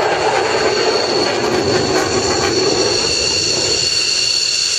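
Jet noise from a Eurofighter Typhoon's two EJ200 turbofans in flight: a loud, steady rush with steady high-pitched whining tones over it. The lower part of the rush eases off gradually.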